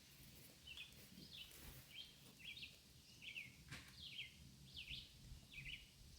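Faint high chirps, short calls repeated about twice a second, with a single soft click near the middle.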